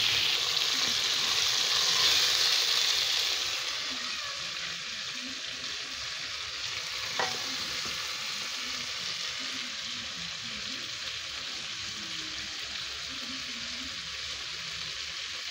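Small fish with tomato frying in oil in an aluminium pot, sizzling steadily as a metal spoon stirs them; the sizzle is loudest for the first few seconds, then softer. A single short clink about seven seconds in.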